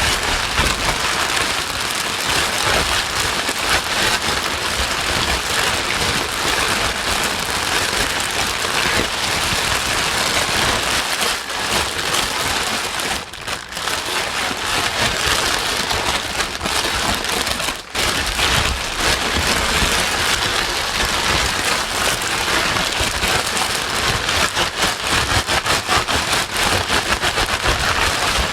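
Sleep white-noise track of heavy rain: a dense, even hiss, steady apart from two brief dips near the middle.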